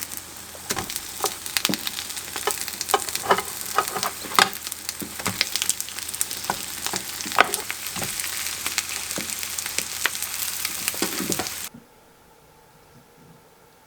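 Stonecrop pancake batter sizzling in hot oil in a frying pan, with frequent sharp clicks and scrapes of a utensil against the pan. The sizzling cuts off suddenly near the end, leaving faint room tone.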